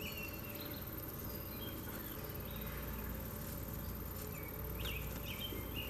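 Outdoor birds chirping and calling in short, scattered notes that rise then level off, over a steady low background rumble.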